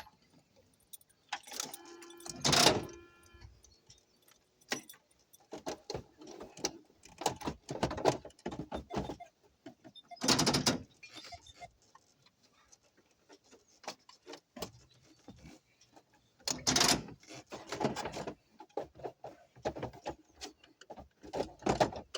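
Irregular clicking, rattling and scraping of plastic and metal parts as the instrument cluster of a 1989 Chevrolet K1500 pickup is worked loose from the dashboard, with a few louder knocks.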